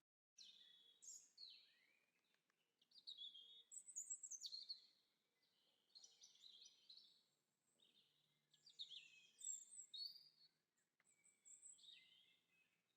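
Songbirds singing: bursts of quick, high chirping and twittering phrases with short gaps between them, after a brief moment of silence at the very start.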